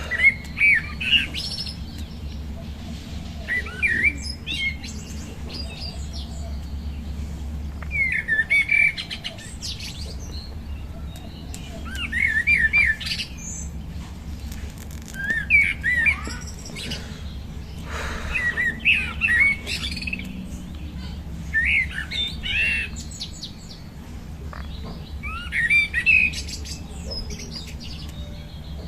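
Birds chirping, in short clusters of quick up-and-down chirps every few seconds, over a steady low hum.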